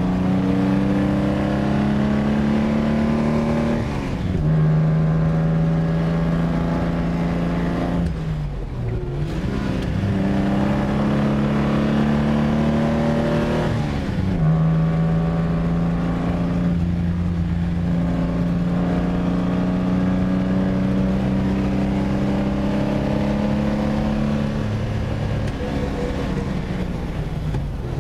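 1953 Lancia Aurelia B20 GT's V6 engine pulling hard, heard from inside the cabin. Its note climbs and drops sharply at gear changes about four, nine and fourteen seconds in, then holds a steady note at speed.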